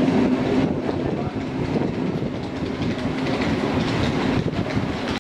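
Departing passenger train, its last carriages rolling out over the track, with wheels clacking over rail joints. A steady hum dies away within the first second, and the rolling noise then settles a little quieter as the train moves off.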